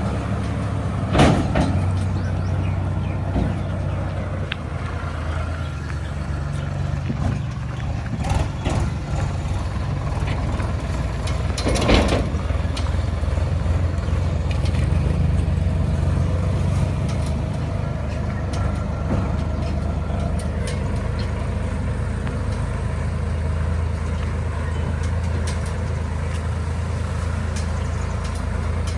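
Sonalika DI 50 RX tractor's diesel engine running steadily with a low hum, with two sharp knocks, one about a second in and one about twelve seconds in.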